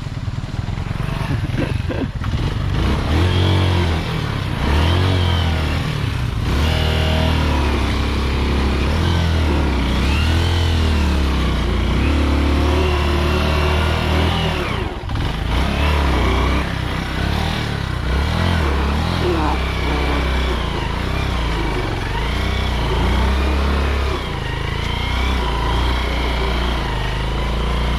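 Motorcycle engine revving up and falling back again and again, under load on a muddy track, with a brief drop about fifteen seconds in.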